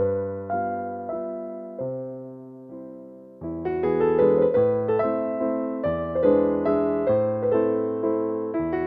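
Gentle piano music: a slow run of chords and melody notes that fades to a brief lull near the middle, then comes back fuller and louder.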